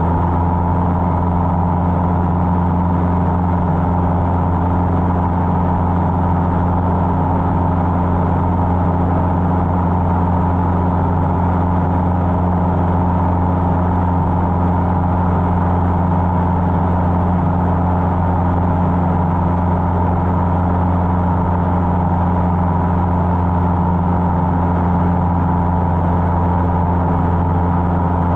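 Cessna 150's Continental O-200 four-cylinder engine and propeller giving a steady drone at constant power, unchanging throughout.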